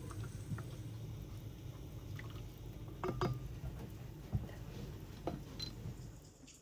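Liquid being poured in a kitchen, with a few light clinks of kitchenware, the sharpest about three seconds in and again past five seconds.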